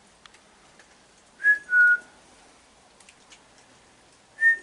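A person whistling a short two-note call, the second note lower, twice, to coax a raccoon back up onto the deck.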